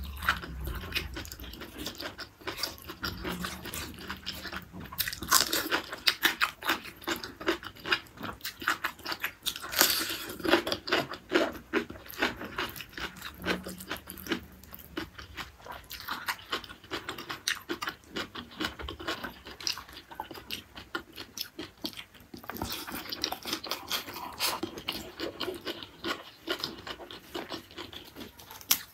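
Close-miked crunching bites and chewing of raw cucumber dipped in sambal, a dense run of crisp clicks with louder clusters now and then.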